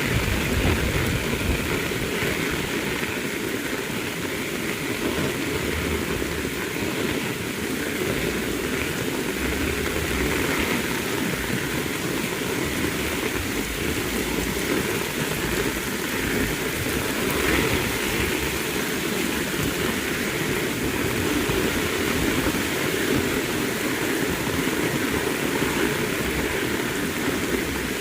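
Heavy rain pouring steadily, a dense unbroken hiss with an uneven low rumble underneath.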